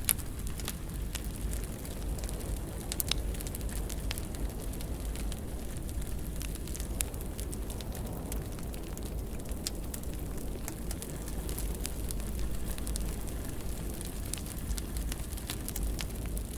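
Wood fire burning in a fireplace, with a low steady rumble of the flames and irregular sharp crackles and pops; a louder pop right at the start and another about three seconds in.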